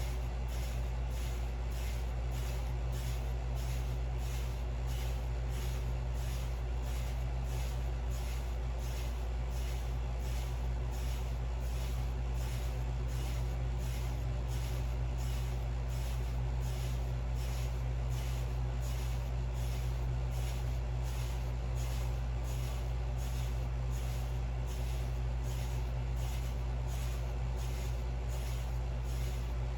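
Hair brush strokes through short hair, a scratchy swish repeating about one and a half times a second, over a steady low hum.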